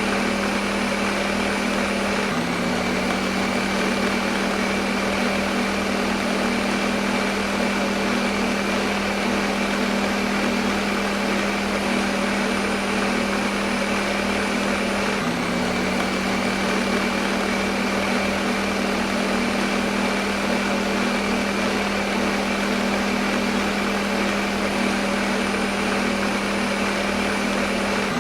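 Electric kitchen blender motor running continuously at one speed, a steady whirring hum, used as white noise. The hum shifts slightly about two seconds in and again about halfway through.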